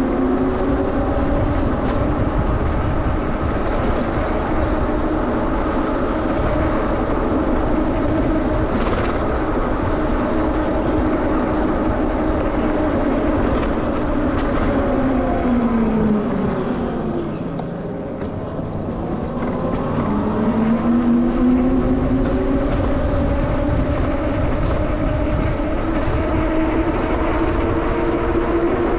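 A moving vehicle running with a steady rumble and a pitched whine. The whine falls as the vehicle slows about sixteen seconds in, then climbs again as it picks up speed from about twenty seconds.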